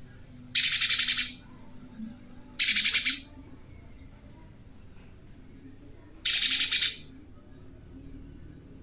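Spiderhunter (pijantung) giving three short, fierce calls, each a fast rattle of notes lasting under a second: about a second in, near three seconds, and around six and a half seconds.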